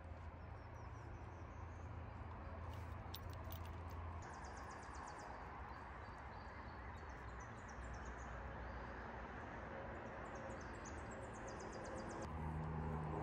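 Songbirds singing in the background: several runs of quick, high, repeated notes, some stepping down in pitch, over a steady outdoor hiss. Background music comes in near the end.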